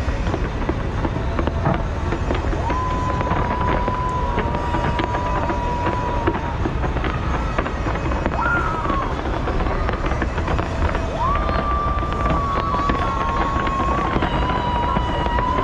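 A big fireworks display: dense crackling and popping over a steady low rumble of bursts. A high held whistling tone runs over it, sliding in pitch now and then.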